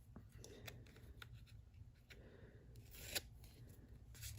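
Faint rustling and small clicks of dried, glued paper being peeled and torn off a playing card, with one sharper click about three seconds in.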